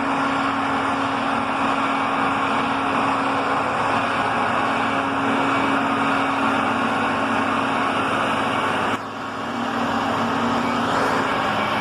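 Steady vehicle noise, a dense rush with a steady engine hum under it, that drops off suddenly about nine seconds in and then builds again.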